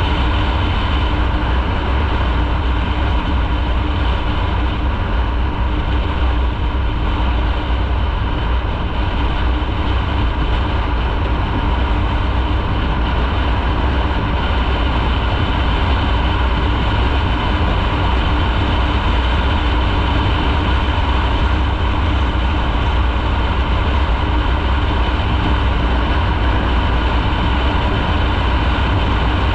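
Motorcycle riding at a steady speed, heard from on the bike: a continuous low rumble of engine and road noise that holds steady without revving up or down.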